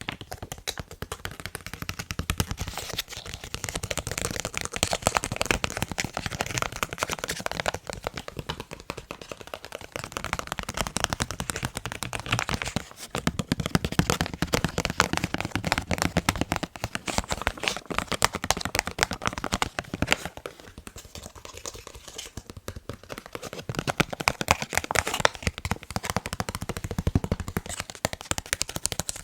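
Rapid, continuous tapping on a face mask, with many quick taps a second and a short break near the middle.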